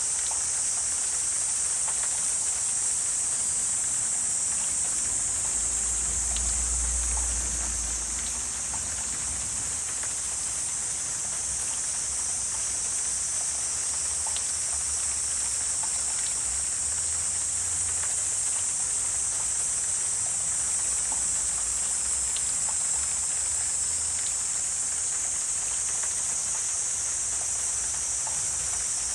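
Wetland ambience: a steady high-pitched insect chorus with scattered faint ticks, and a brief low rumble about six seconds in.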